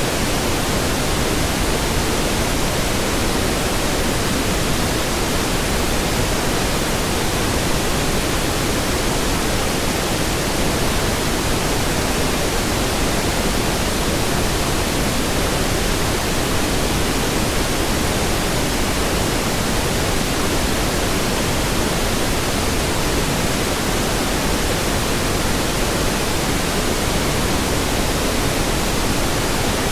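Steady pink noise: an even, unchanging hiss spread across all pitches, weighted toward the low end.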